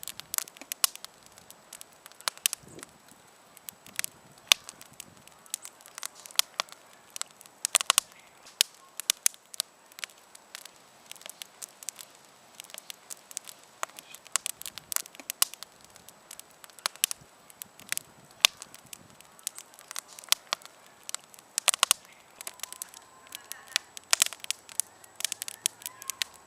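Wood campfire crackling, with irregular sharp pops and snaps over a faint hiss of burning.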